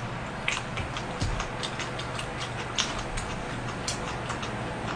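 A person chewing food close to the microphone, with many quick, irregular wet mouth clicks, several a second.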